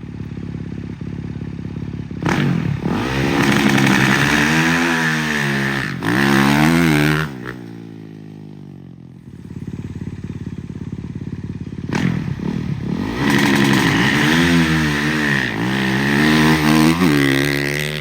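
Turbocharged, methanol-fuelled mega truck engine idling, then revved hard twice, several seconds each time, with the revs climbing and dipping repeatedly before settling back to a lumpy idle in between.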